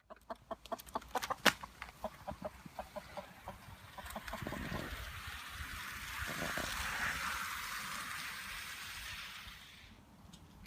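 Model train running on a garden railway: a quick run of clicks from wheels passing over rail joints, then a rush of running noise that swells, peaks past the middle and fades as the train goes by.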